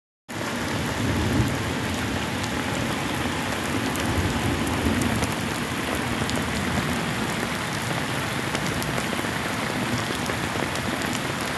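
Heavy rain falling steadily, with many individual drops ticking sharply against nearby surfaces.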